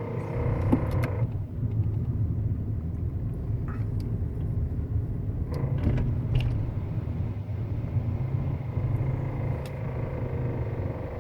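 2012 Hyundai Elantra on the move with a low knocking rumble that follows engine RPM and goes away when the car comes to a full stop.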